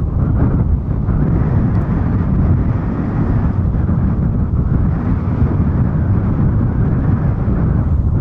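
Boeing 777-200's twin jet engines giving a steady low roar on approach, with gusty wind buffeting the microphone.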